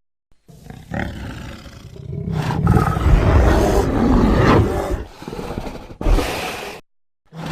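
Designed roar sound effect for Arctotherium, a giant prehistoric bear. It builds from a low rumble into one long loud roar that fades away, followed by a short second burst that cuts off suddenly.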